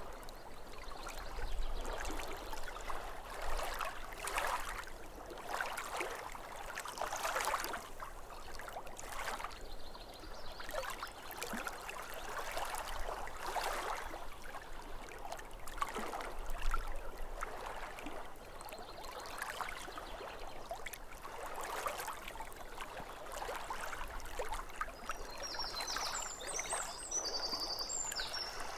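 Small waves lapping at a lake shore, a soft wash swelling every second or two, with a few short bird chirps near the end.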